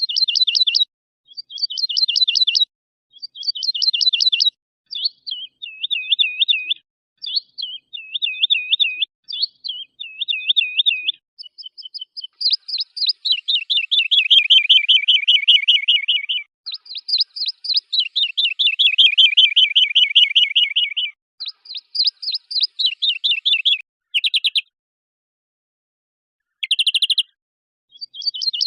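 Several songbirds' songs edited together into one composed track, phrase after phrase with dead-silent gaps between. First come short bursts of rapid trills, then a run of repeated looping whistled notes, then long, fast trills of a second or more, with two short sharp bursts near the end.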